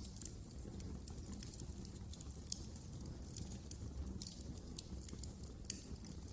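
Wood fire crackling in a fireplace: irregular sharp pops and snaps over a low steady rumble of the burning fire, with a couple of louder pops.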